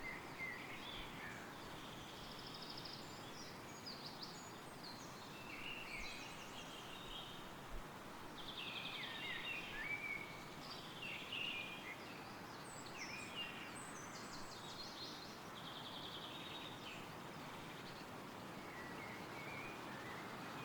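Woodland wind rustling through trees as a steady hiss, with several songbirds singing high chirps and trilled phrases that come and go throughout.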